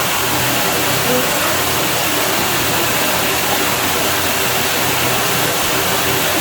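Steady rush of running water at a pool villa's pool, an even, unbroken noise with a low hum underneath.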